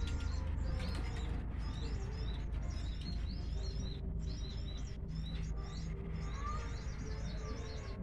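Small birds chirping in quick, repeated high notes over a low steady hum.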